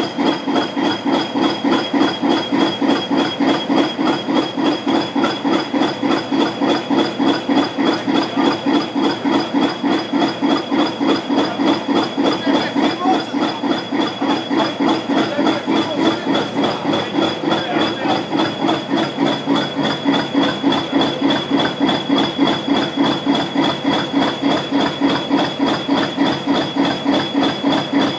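Class 20 diesel locomotive's English Electric 8SVT V8 engine idling after a cold start, with an even beat of about four pulses a second and a steady high whine above it.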